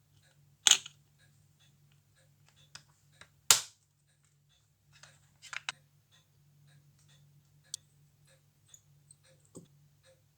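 Sharp clicks and taps of small metal tools and watch parts being handled on a watchmaker's bench, over a faint low hum. Two loud clicks come in the first few seconds, a quick cluster follows at about the middle, and lighter ticks come after.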